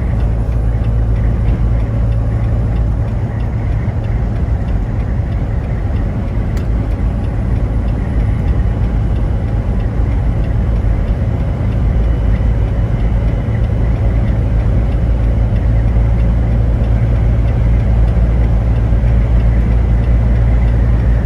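Steady low rumble of a vehicle driving, like road and engine noise heard inside a car, with no clear changes.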